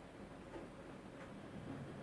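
Faint low rumble of distant thunder, growing slightly louder near the end, with a few light ticks.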